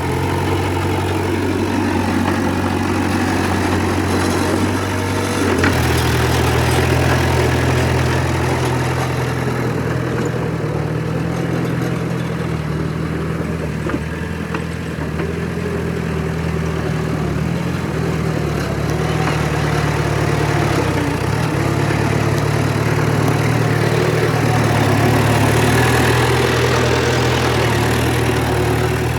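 Heavy diesel engine of earthmoving machinery running steadily, its note shifting to a lower, fuller pitch about five and a half seconds in and then holding.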